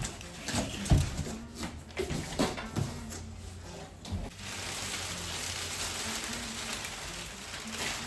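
Packaging being handled around a dishwasher: a few sharp knocks and thumps in the first three seconds, then a steady crackling rustle from about four seconds in.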